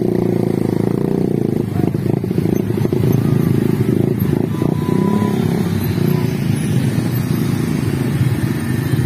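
Steady loud rumble of passing vehicles.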